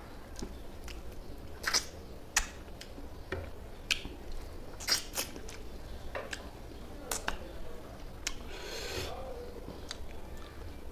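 Close-up eating sounds of a man chewing rice and fish curry eaten by hand: scattered wet lip smacks and mouth clicks, with a short breathy rush of air a little after 8 seconds in.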